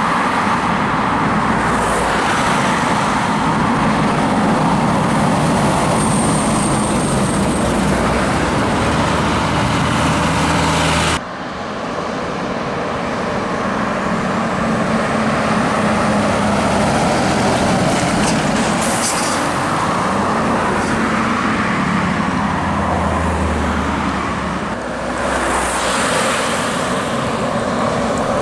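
Heavy diesel trucks running and driving close by, a steady low engine note with road noise, changing suddenly about eleven seconds in to another truck's engine.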